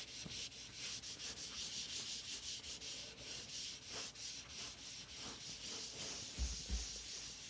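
Quick, even back-and-forth rubbing on teak wood, about five strokes a second, as Osmo Polyx hard wax oil is worked into the surface by hand. A low drum beat comes in near the end.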